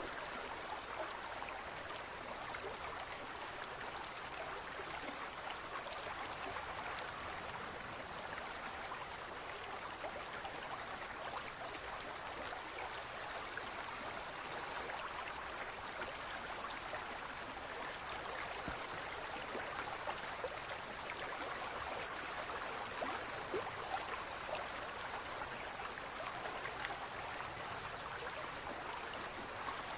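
Steady running water, trickling and gurgling, with faint small drips through it.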